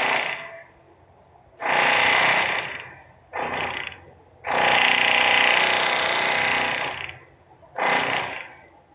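Loud, rattling power-tool noise from an industrial plant, coming in bursts: one ends just after the start, then four more of about half a second to two and a half seconds, the longest in the middle, with short pauses between them.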